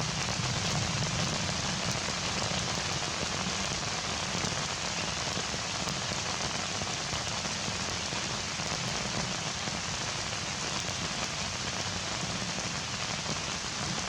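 Heavy rain falling steadily, a dense even hiss of drops on surfaces around.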